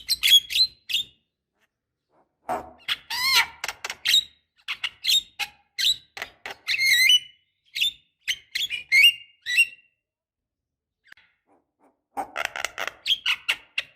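Javan myna (jalak kebo) singing: a rapid string of sharp, short calls and chattering phrases. Near the end there is a silence of about two seconds, then the chatter starts again.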